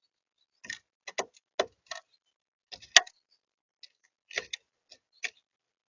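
A series of about a dozen short, sharp taps and clicks at an irregular pace, the loudest about three seconds in.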